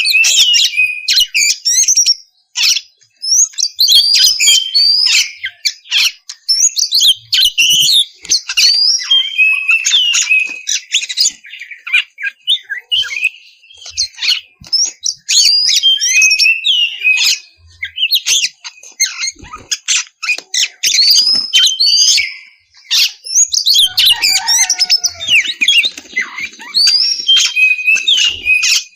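Oriental magpie-robin (kacer) singing a continuous, full song of rapid, varied whistles, chirps and glides, with a few short pauses.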